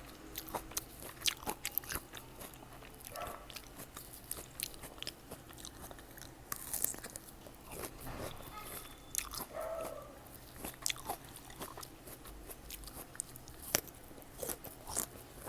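Close-up eating of fresh fruit: crisp, irregular crunches of biting and chewing.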